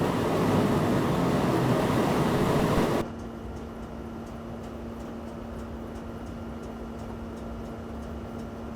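Train running noise heard inside the driver's cab, a loud steady rush that cuts off suddenly about three seconds in. What remains is a quieter steady hum with one low tone and faint ticking.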